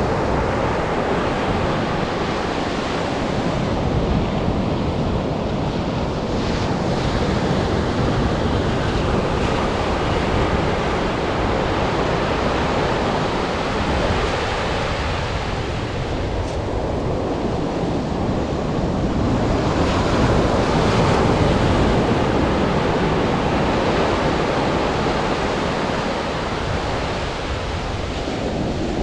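Atlantic surf breaking and washing on a sandy beach, swelling and easing in waves and loudest about two-thirds of the way through, with wind rumbling on the microphone.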